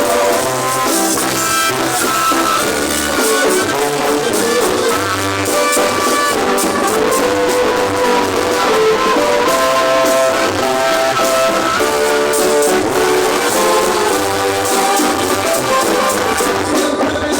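Instrumental passage of Mexican banda music: brass horns play held melody notes over a repeating low bass line and drums.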